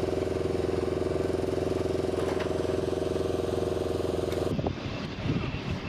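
A steady engine running with an even, rapid pulse, which cuts off abruptly about four and a half seconds in, giving way to a quieter, irregular rumble.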